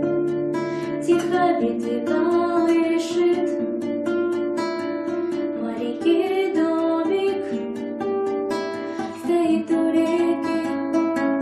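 Music: a melody of held notes played on a plucked string instrument.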